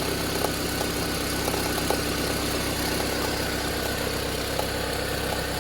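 Toyota Harrier's 5S-FE inline-four idling steadily while warming up, with a faint crackling tick. The crackle comes on every cold start and fades as the engine warms, and here it is nearly gone. The owner cannot tell where it comes from; the timing belt has been checked and is fine.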